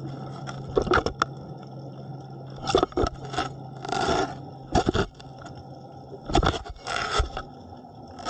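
A shark chewing on a camera that is caught in its mouth: irregular scrapes and crunching knocks as its teeth grind on the camera housing, picked up by the camera itself.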